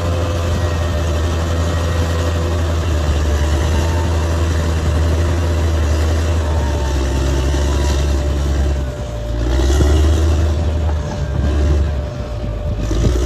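Bulldozer's diesel engine running steadily under load with a deep hum. In the last few seconds it dips and picks up again a few times, as the engine load or throttle changes.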